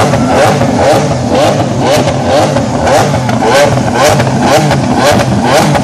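Lamborghini Aventador LP700-4's 6.5-litre V12 engine running loud, with a short rising surge repeating about twice a second.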